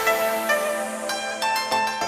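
Programme theme music: plucked-string notes ringing out over held tones, steadily fading.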